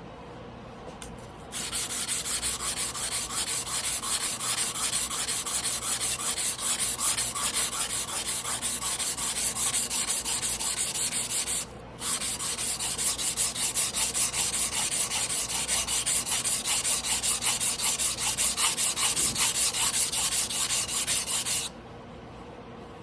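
Steel blade of a Tojiro Damascus carbon-steel yanagiba being stroked back and forth on a whetstone by hand, a rhythmic scraping at about three strokes a second. It starts about a second and a half in, pauses briefly about halfway, and stops shortly before the end.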